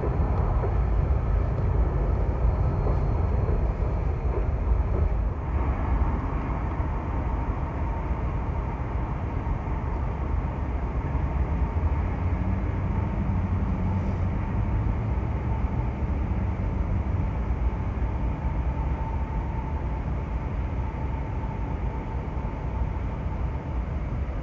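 Train rolling by: a steady, loud rumble, with a faint steady tone running on top from about six seconds in.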